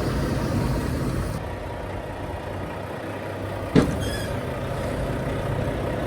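Semi-truck diesel engine running steadily. About two-thirds of the way through there is one sharp metallic clack with a brief ring.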